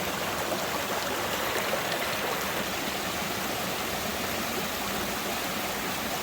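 Steady rush of running water, as from a stream.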